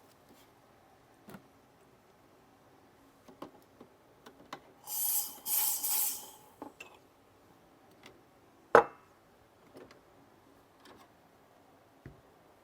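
Handling sounds while making coffee with an espresso machine: scattered small clicks and knocks. About five seconds in comes a loud hiss in three quick pulses lasting about a second and a half. One sharp knock comes near nine seconds in.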